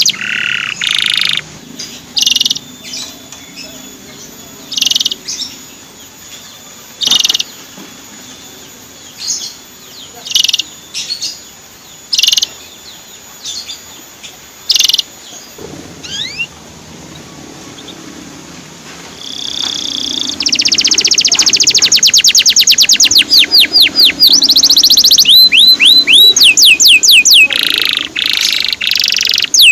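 Male canary calling: short separate chirps at first. About two-thirds of the way in it breaks into a loud run of fast repeated rising "cuit-cuit" notes.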